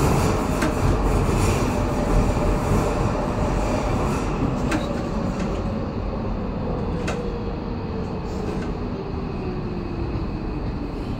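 Docklands Light Railway train heard from inside the carriage, slowing as it runs into a station: a steady rumble of wheels on rails, with the motor's whine falling slowly in pitch as the train brakes, and a few sharp clicks from the track.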